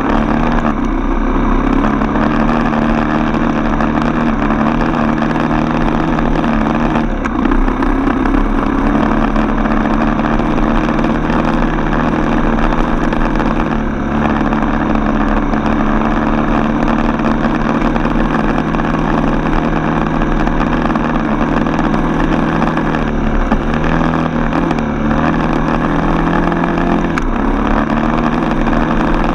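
Four-stroke single-cylinder dirt bike engine running steadily under way, its pitch dipping briefly several times with throttle changes.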